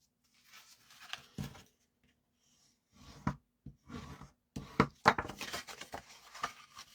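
Scored cardstock being folded and its creases burnished: short scrapes, paper rustles and light taps, in scattered bursts that are most frequent in the second half.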